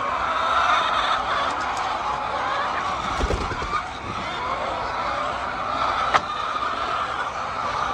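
A flock of hens clucking and murmuring together in a steady din, with a low thud about three seconds in and a sharp click about six seconds in.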